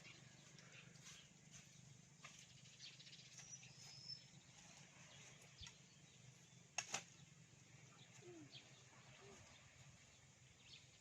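Near silence with faint bird chirps now and then over a steady low hum, and two sharp clicks close together about seven seconds in.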